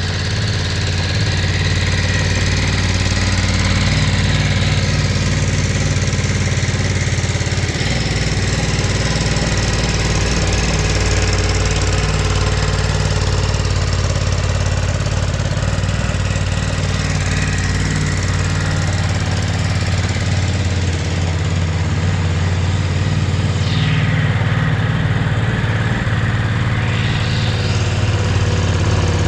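2022 Ducati DesertX's 937 cc Testastretta L-twin engine idling steadily through its stock exhaust.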